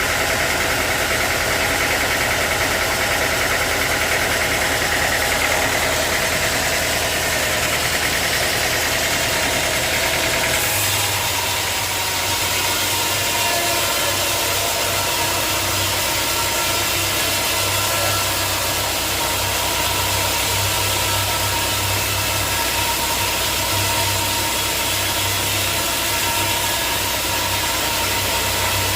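Portable bandsaw sawmill's engine running steadily. About ten seconds in, the sound shifts: a higher whine drops away and a low hum grows stronger.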